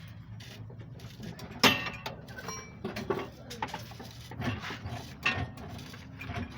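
Metal tools and suspension parts clanking and knocking as they are handled and fitted, with one sharp, ringing metallic clank under two seconds in and several lighter knocks after it, over a steady low hum.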